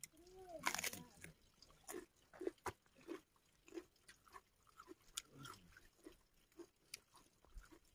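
A person chewing a mouthful of rice and fish close to the microphone: soft wet chewing and lip smacks about two a second, with a brief louder mouth sound about half a second in.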